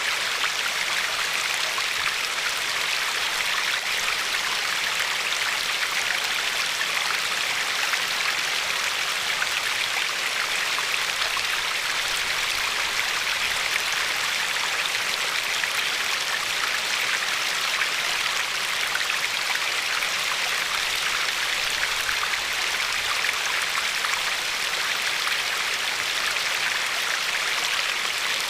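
Glacier-fed river flowing and lapping along a pebbly shore: a steady, even rush of water.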